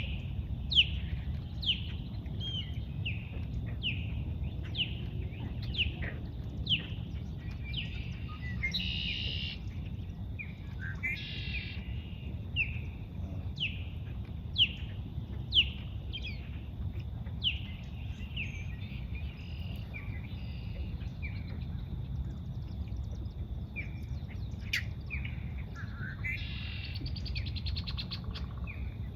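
A bird calling in a long series of short, falling chirps, about one or two a second, with a few buzzier calls mixed in, over a steady low rumble.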